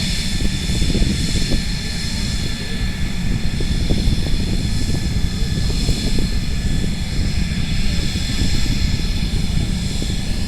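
Mitsubishi F-2 fighter's single F110 turbofan running steadily after start-up: a constant high multi-tone whine over a deep rumble.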